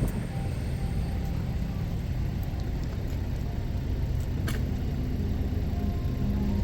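Steady low engine rumble of road vehicles at a level crossing, with one sharp click about four and a half seconds in.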